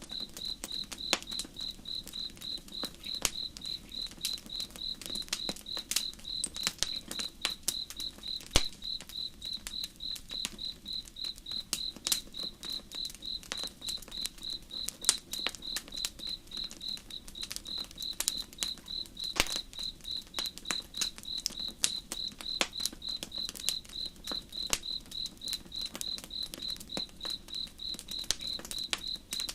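A cricket chirping steadily, a high-pitched pulse about three times a second, over the irregular crackles and pops of a burning campfire.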